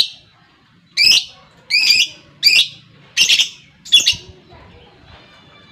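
Lovebird giving a series of about six short, shrill, squawking calls, each under half a second and spaced under a second apart, then falling quiet near the end.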